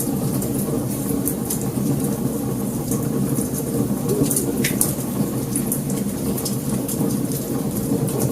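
Wood fire burning, with frequent small crackles and pops over a steady low rush of flames.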